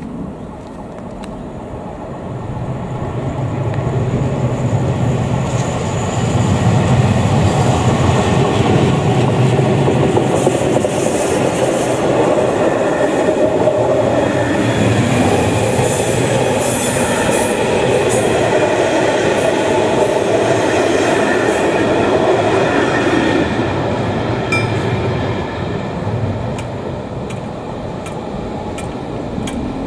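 Czech Railways express passenger train passing close by: a rumble that builds over the first few seconds as it arrives, then a long run of coaches with wheels clicking over the rail joints. It eases off over the last several seconds as the train leaves.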